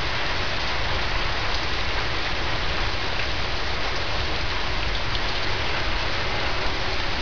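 Heavy rain falling steadily in a downpour, an even, unbroken hiss of drops.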